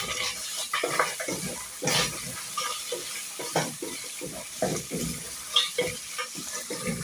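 Beef pieces sizzling as they brown in hot cooking oil, stirred around the pot with a spoon that scrapes and knocks against it at an irregular pace.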